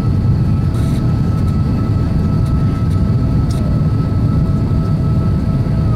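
Steady engine and airflow roar inside the cabin of an Airbus A350-1000 climbing after takeoff, its Rolls-Royce Trent XWB engines under climb power, with a faint steady high whine over the low roar.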